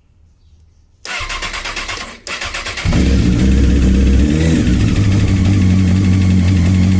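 Honda CBR 954 RR inline-four motorcycle engine being started: the electric starter cranks in quick pulses about a second in, pauses briefly, cranks again, and the engine catches near the three-second mark and settles into a steady idle. This engine is the one with piston slap, a known fault of the model caused by its short piston skirts.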